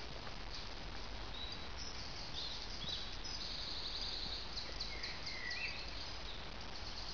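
Small songbirds chirping in woodland, with a fast trill of repeated high notes in the middle and a couple of lower chirps near the end, over a steady background hiss.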